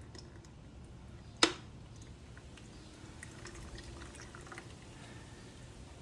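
Engine oil draining from the motorcycle's open drain hole into a plastic catch container, a faint trickle with scattered small drips. One sharp knock about a second and a half in.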